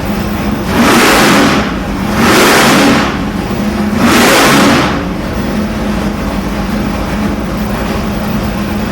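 Fuel-injected 632-cubic-inch big-block Chevy V8 running on an engine dyno, blipped three times in short, loud surges about a second apart, then settling back to steady running.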